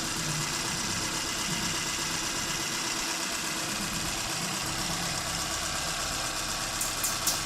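Proton Iswara's rebuilt, carburetted 4G15 four-cylinder engine, bored out from 1.5 to 1.6 litres, idling steadily.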